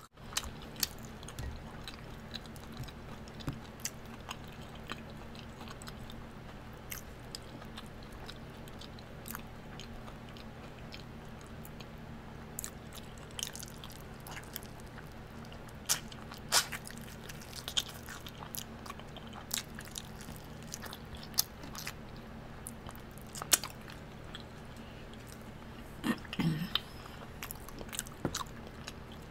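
Close-up mouth sounds of eating sauced hot wings: biting, chewing and wet smacking with scattered clicks and occasional crunches, over a steady low hum.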